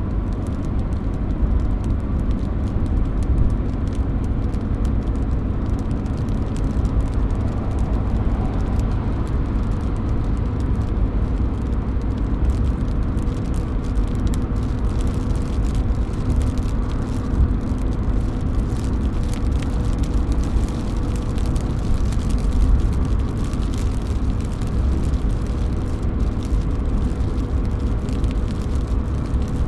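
Rain falling and raindrops dripping from a roof, a steady rushing noise scattered with many small, sharp drop ticks.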